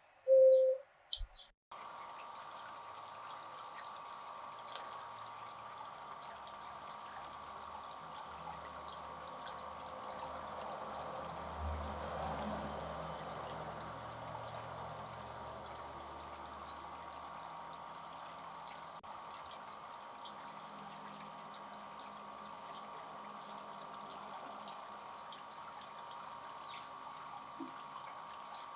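Fountain bird bath running: water splashing and trickling steadily, with scattered small drips and a faint steady tone. A few loud short low notes sound in the first second and a half, before the water sound cuts in.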